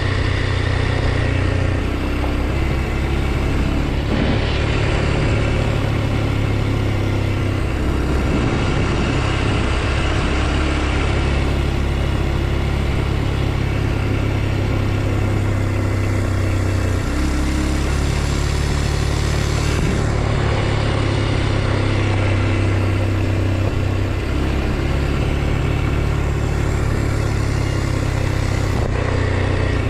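2023 Kawasaki KLX 230 SM's single-cylinder four-stroke engine running as the bike is ridden, the engine note stepping up and down every few seconds with throttle and gear changes.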